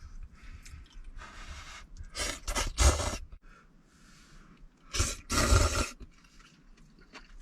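Several short, breathy rushes of air, each under a second, from a person eating hot noodles at close range, with low thumps under the louder ones.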